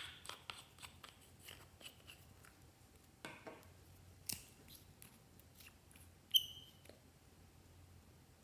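Glossy slime worked by hand, giving a string of small sticky clicks and pops, with a short high-pitched tone about six seconds in.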